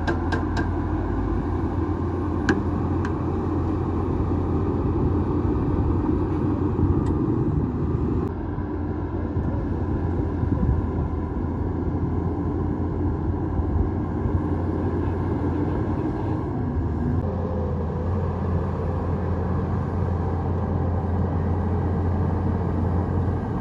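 Bulldozer's diesel engine running steadily, a deep continuous rumble whose tone shifts twice. A few sharp clicks sound near the start.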